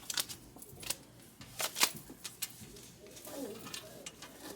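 Playing cards snapped and laid down on a table during a card game: a scattered run of short, sharp clicks, loudest nearly two seconds in, then a faint murmured voice.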